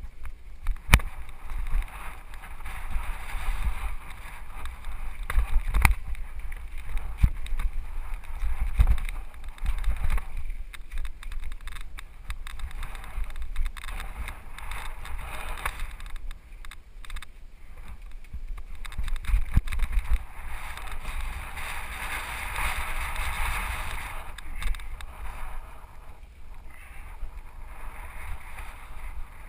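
Mountain bike ride down a rocky trail heard from a helmet camera: a steady rush of wind and tyre noise with heavy rumble, broken by sharp knocks and rattles as the Specialized FSR full-suspension bike jolts over rocks, several of them loud.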